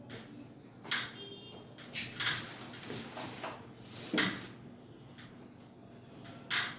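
Sharp clacks and clatters of hard objects being handled, about four loud ones a second or two apart, with fainter knocks between them.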